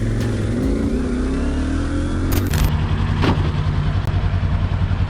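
Vehicle engine accelerating: its pitch rises over the first two seconds, then holds at a steady, pulsing note. A sharp click sounds about two and a half seconds in.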